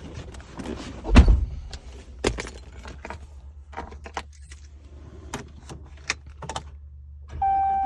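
Truck keys jangling and clicking as they are handled and fitted into the ignition, with a louder knock about a second in. Near the end a steady electronic warning chime comes on and the pickup's engine starts.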